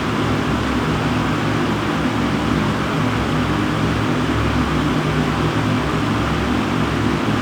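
Panasonic bathroom exhaust fan running steadily, a constant rush of drawn air over a low hum.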